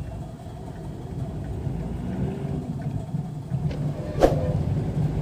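Hyundai Xcent's engine and road rumble heard inside the cabin, building slowly as the car pulls away, with a single sharp click about four seconds in.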